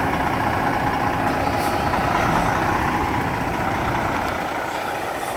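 Semi truck's diesel engine running steadily at low revs while the tractor-trailer is manoeuvred in reverse.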